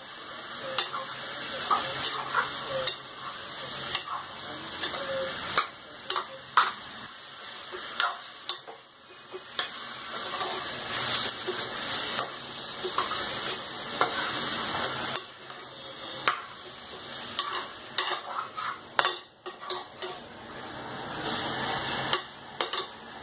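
Marinated chicken sizzling in hot ghee and fried onion in a pressure cooker as it is stirred, the steel spoon scraping and knocking against the metal pot at irregular intervals.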